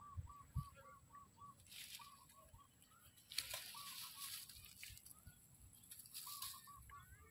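Faint bird calls in quick runs of short repeated notes, about five a second, that come and go, with a few brief bursts of rustling, the loudest about three and a half seconds in.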